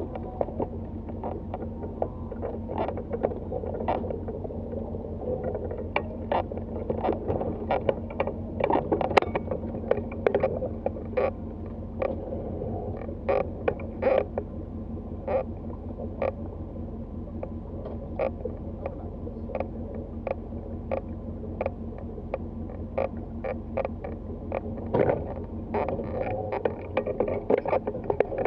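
A tow vehicle's engine idling steadily, with irregular clicks and knocks from gear being handled, a few a second throughout.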